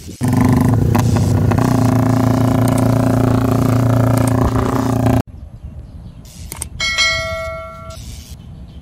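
Motorcycle engine running loud and steady at high revs for about five seconds, then cutting off suddenly. A short, bright bell-like ding rings out about seven seconds in and fades.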